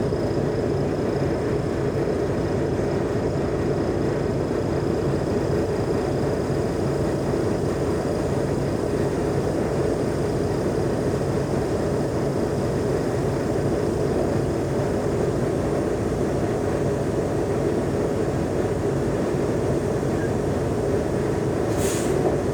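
Mercedes-Benz O345G articulated bus's six-cylinder diesel engine running steadily with road noise as the bus travels, with no change in pace. A brief high hiss comes near the end.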